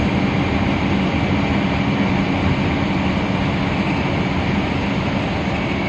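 Steady running noise of a moving bus heard from inside the cabin: engine drone and road noise, unchanging throughout.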